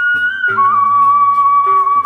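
Traditional Sasak ensemble music: a wind instrument holds a long, wavering melody line over a beat of low drum strokes.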